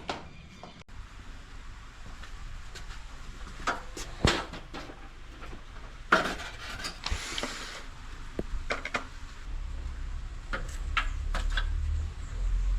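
Scattered clinks and knocks of hard objects being handled, with a short hiss about seven seconds in and a low rumble building near the end.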